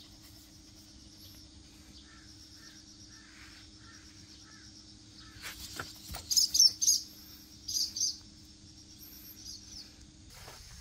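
Bird chirping: a quick cluster of loud high calls about six seconds in and another short burst of calls near eight seconds, over a faint steady insect drone.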